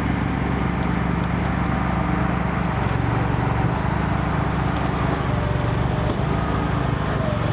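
Vehicle engine running steadily, its low hum shifting slightly in pitch about three seconds in.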